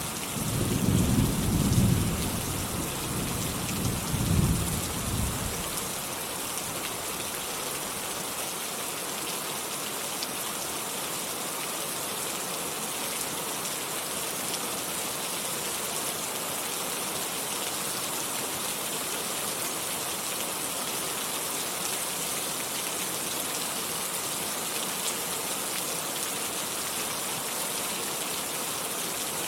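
Steady rain falling, with a roll of thunder rumbling in the first six seconds, loudest about two seconds in and swelling again near four seconds, then only the even hiss of the rain.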